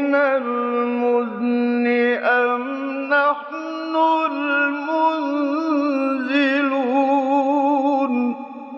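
A man's voice reciting the Quran in a slow, melodic chant, holding long ornamented notes with a wavering pitch. The phrase ends about eight seconds in, and a short echo fades after it.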